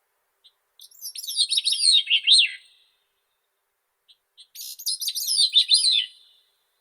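Grey-cheeked thrush singing: two thin, fluty phrases of quickly falling notes, the first about a second in and the second about four and a half seconds in, each ending on lower notes.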